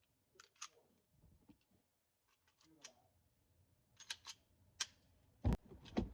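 Pistol and magazine handling: a string of sharp mechanical clicks and light knocks, then two heavier knocks about half a second apart near the end.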